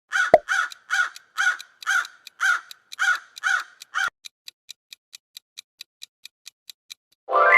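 A crow cawing, a run of about nine harsh caws roughly two a second, followed by fast, even clock-like ticking and a musical tone coming in near the end.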